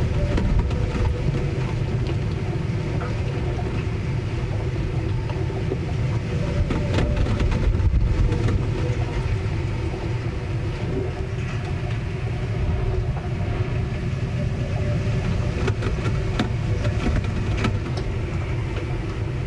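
Ship in a storm: a continuous low rumble with a faint steady hum and scattered small knocks and clicks.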